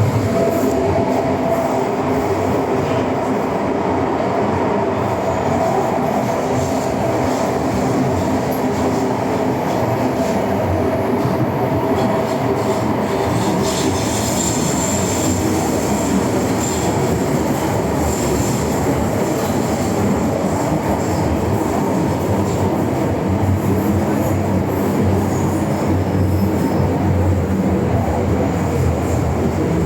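MTR M-train electric multiple unit running along the Island Line: a continuous loud rumble of wheels on rail. A steady whine sits over it for the first half, and a thin high wheel squeal comes in about halfway through.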